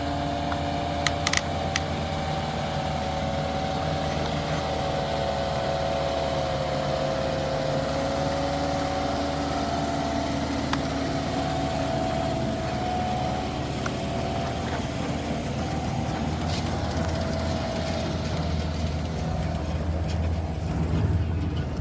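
Small motor running steadily with a wavering whine, a few light clicks about a second in.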